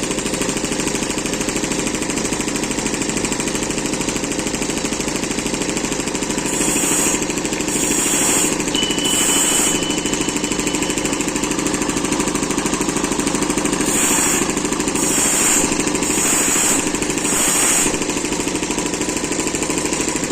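Saw-blade sharpening grinder running steadily, with short bursts of high grinding hiss as the wheel meets the blade's teeth: three about seven seconds in and four more about fourteen seconds in.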